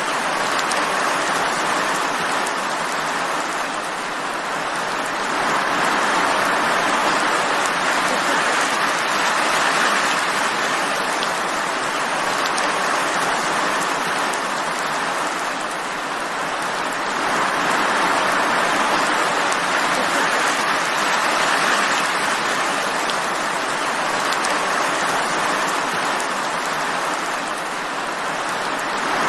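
Steady rain falling, a dense even hiss that swells and eases slowly every several seconds.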